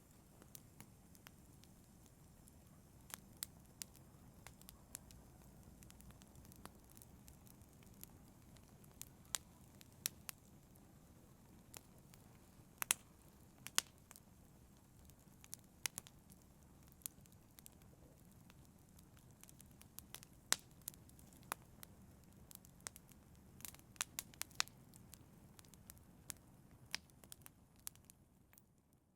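Wood fire in a fireplace crackling, with irregular sharp pops and snaps over a quiet low rush of flame. It fades out right at the end.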